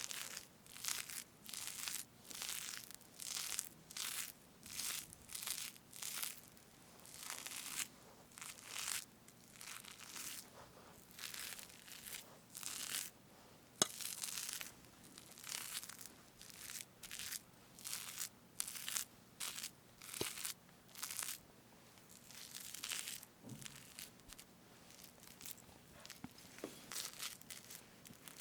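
Whipped cream on a strawberry cake being parted and scooped with a utensil close to the microphone: a steady run of short, soft, squishy strokes, about one or two a second, with a single sharp click about halfway through.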